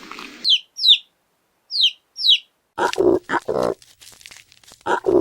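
Four short, high chirps, each falling in pitch, in two pairs, followed after a pause by a domestic pig grunting in several rough, short calls.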